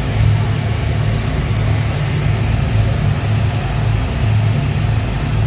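Speedboat engine running steadily at cruising speed: a loud, even low drone.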